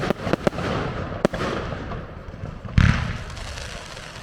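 Fireworks display going off: a few sharp bangs in the first second and a half, then a deep boom about three seconds in, with a rush of noise between them.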